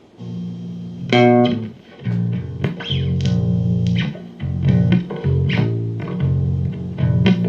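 Amplified guitar playing a run of low plucked notes that ring on, with a brighter, higher note about a second in.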